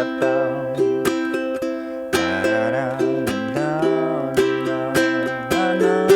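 Flight Fireball ukulele strummed through the verse chords, C to G, with a strum about every half second. A low voice hums along with the melody.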